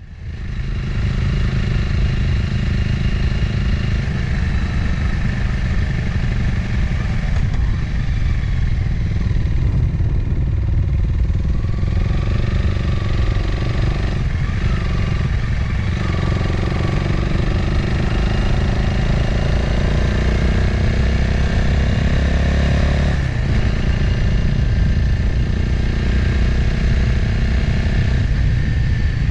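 Motorcycle engine running under way, recorded by a camera mounted on the bike, with wind noise. The engine note climbs slowly, then drops sharply about 23 seconds in, as at a gear change.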